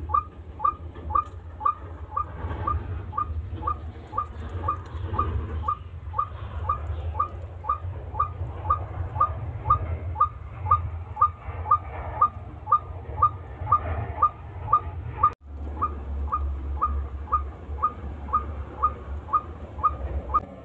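A bird calling a short, falling note over and over at a steady rate of about two to three notes a second, over a low steady rumble.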